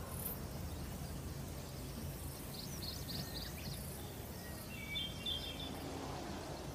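Forest ambience: steady low background noise with songbird calls, a quick series of high chirps about three seconds in and a short run of high whistled notes about five seconds in.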